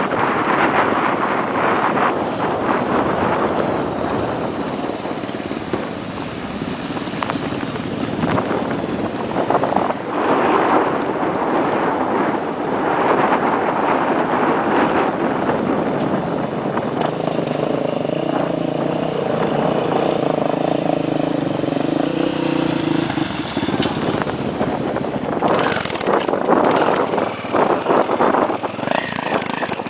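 Yamaha XT600 trail motorcycles running, mixed with wind buffeting the microphone; for several seconds past the middle one engine's steady tone stands out clearly.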